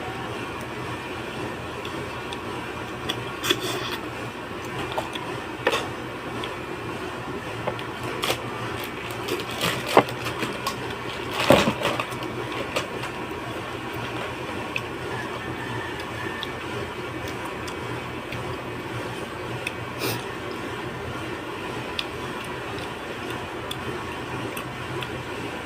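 Eating sounds: scattered short clicks and knocks of a spoon against a bowl and plate, with chewing and a louder noisy burst, like slurping soup, about halfway through. Under it runs a steady mechanical hum.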